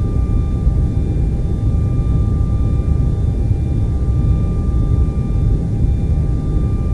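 Steady television static noise, heaviest in the low end, with a faint steady whine above it. It does not change.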